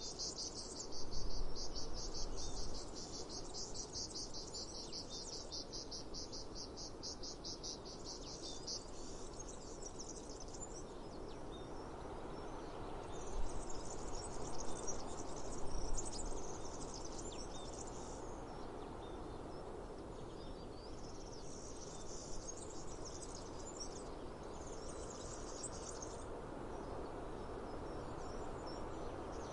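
Cicadas singing high-pitched: a fast, evenly pulsing run for the first nine seconds, then shorter bursts that come and go. Underneath is a steady outdoor hiss.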